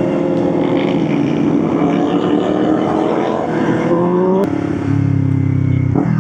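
Motorcycle engine pulling under throttle, its pitch climbing slowly, then a click and a drop in pitch about four and a half seconds in as the rider shifts up, after which it pulls again.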